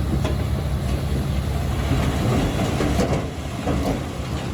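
Small crawler bulldozer's diesel engine running steadily, with metallic clanking and rattling from its tracks and blade, busiest about halfway through.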